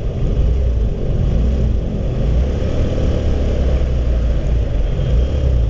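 Steady rumble of a Honda CB150R's single-cylinder engine running at cruising speed, mixed with wind rushing over the microphone during the ride.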